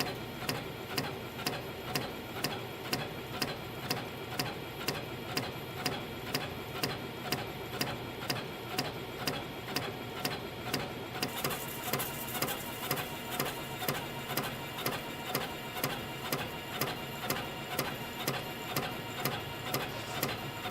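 CNC compression spring coiling machine running, feeding and coiling 0.6 mm wire, with a sharp click about twice a second as the cutter chops off each finished spring, over a steady mechanical whir.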